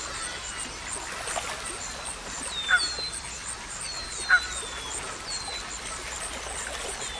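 Birdsong ambience: repeated short, falling high chirps, with a louder call about three seconds in and another a second and a half later, over a faint, even high pulsing.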